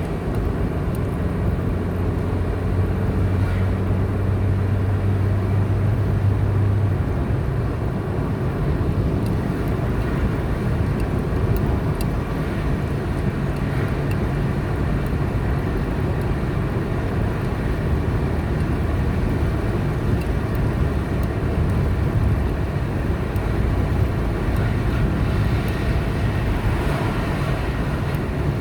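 A car driving steadily along a highway: continuous engine hum and tyre-and-road noise.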